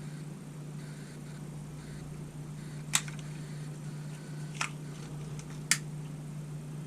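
Three short sharp clicks, the first about three seconds in and the others over the next three seconds: a lighter being struck to shrink heat-shrink tubing over soldered wires. A steady low hum runs underneath.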